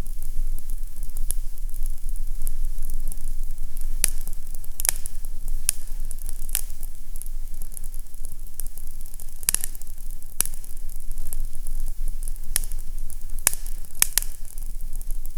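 Fireplace crackling: scattered sharp pops over a soft hiss, with a steady low rumble underneath.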